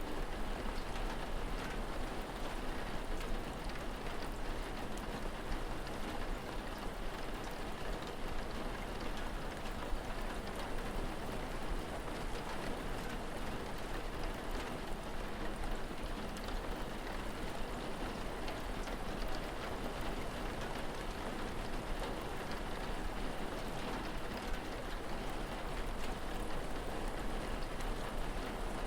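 Steady rain falling, an even patter of drops, over a constant low rumble.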